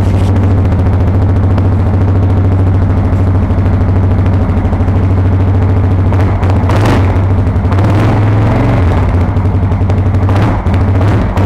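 Yamaha Grizzly 550 ATV's single-cylinder four-stroke engine idling steadily, heard through its exhaust muffler tip with spark arrestor. Two short bursts of noise come over it, one past the middle and one near the end.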